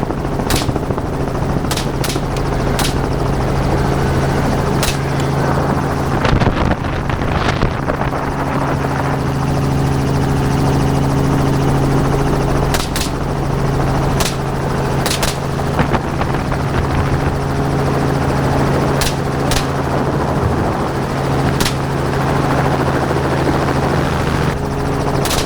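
Helicopter running steadily in flight. Over it come about fifteen sharp gunshots at irregular intervals, some in quick pairs.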